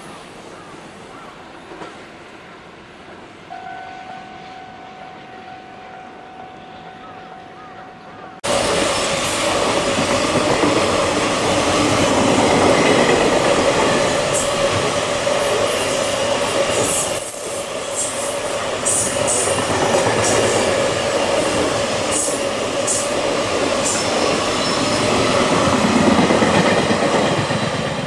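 For about eight seconds an electric train approaches with a steady tone sounding in its last few seconds; then a container freight train passes close by, loud and steady, its wagon wheels clattering over rail joints with repeated high wheel squeal.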